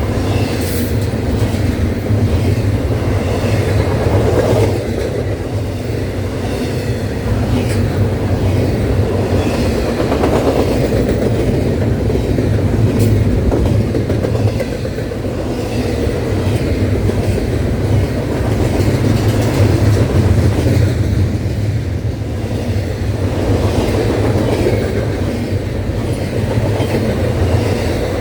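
CSX intermodal freight train rolling past, its cars' wheels clacking over the rail joints amid a steady loud rumble.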